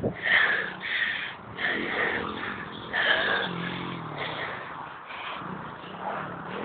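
Single-cylinder engine of a 110cc pit bike revving up and down unevenly, the revs dropping away about three and a half seconds in.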